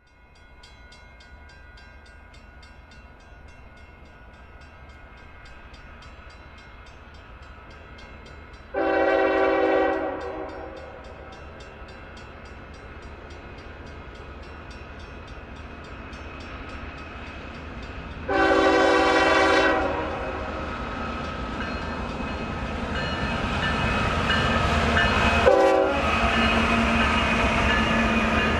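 Diesel locomotive approaching, sounding two horn blasts about ten seconds apart, then a short toot near the end. Its engine and wheel rumble grow steadily louder as it nears.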